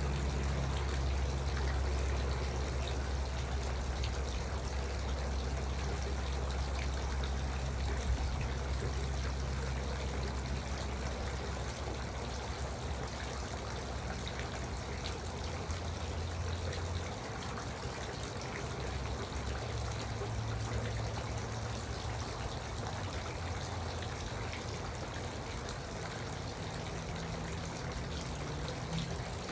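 Garden water fountain running steadily, water trickling and splashing, with a low rumble underneath.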